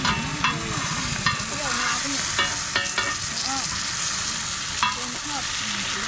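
Roti frying in oil on a hot griddle, sizzling steadily, with several sharp clicks from the cook's utensil.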